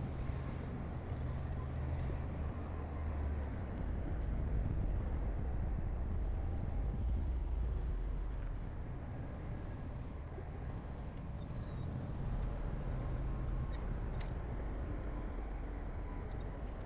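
Diesel engine of heavy earthmoving equipment running steadily with a deep, low-pitched drone, with a few faint clicks in the later seconds.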